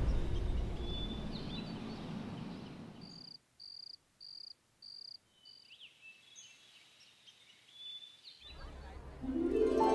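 Cricket chirping: about five short high pulses half a second apart, with scattered short high chirps around them, over a fading sound bed. Music comes in near the end.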